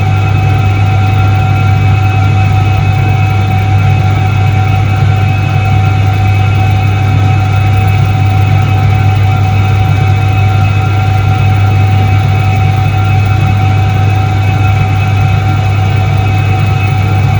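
Soviet ISET-3 washing machine (1978) running, its electric motor giving a steady, even low hum with a few fixed higher tones over it.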